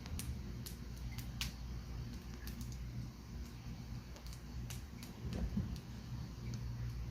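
Wood campfire crackling: scattered sharp pops and snaps of burning logs, with a louder crack about a second and a half in, over a steady low rumble.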